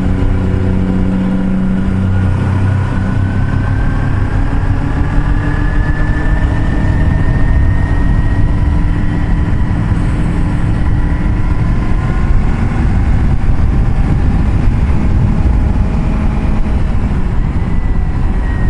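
Motorcycle engine running at road speed under heavy wind rush on the microphone; the engine note rises slowly over the first several seconds, then holds steady.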